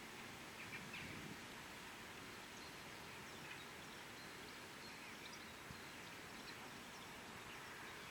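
Faint, steady outdoor background noise with a few short, faint high chirps scattered through it.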